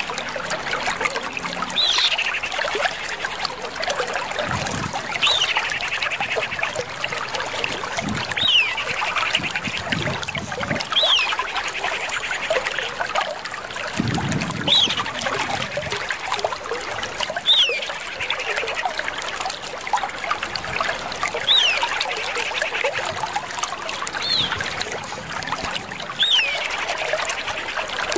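Common iora (Aegithina tiphia) calling over and over, about once every three seconds: each call is a quick falling whistle followed by a short buzzy trill. A steady hiss, like trickling water, runs underneath.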